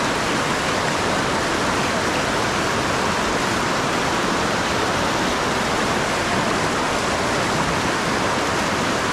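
Fast river current rushing steadily over rocks.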